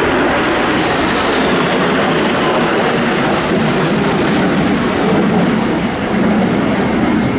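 Military aircraft flying past low and loud, a steady engine roar with a faint high whine falling slowly in pitch over the first few seconds.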